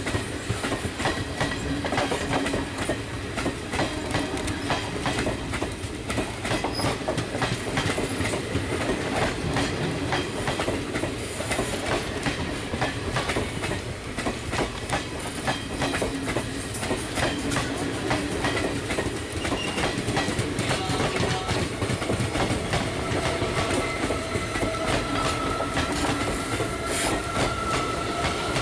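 Passing train on a railway bridge, its wheels clattering steadily over the rail joints. A thin, high squeal of wheels on rail joins in near the end.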